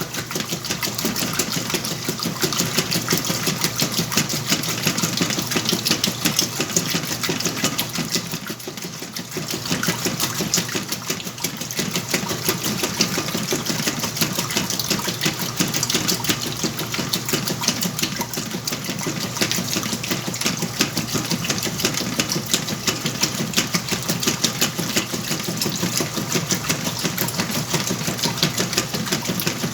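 Whirlpool washing machine running a wash cycle with blankets: a steady mechanical run with a fast, even rattle and some water noise, easing briefly about 9 seconds in.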